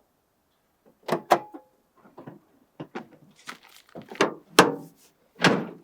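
A run of short clicks and knocks, with a sharp double click about a second in and a longer scraping thud near the end: something being handled, with a door or latch worked.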